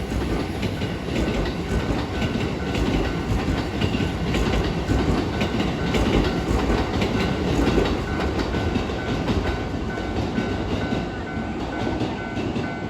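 A train running through a level crossing, its wheels clicking over the rail joints, loudest in the middle, while the crossing's warning bell rings in a steady, evenly repeating pattern.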